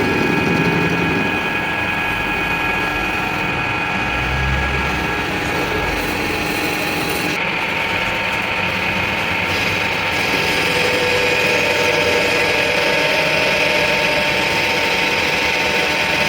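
A workshop machine running steadily, with a constant whine of several pitches over a noisy hum. The tone shifts slightly about seven and ten seconds in.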